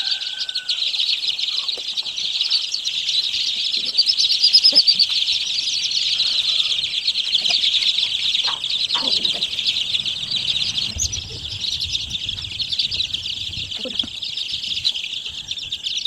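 Large brood of young chicks peeping all at once, a dense, unbroken high-pitched chorus.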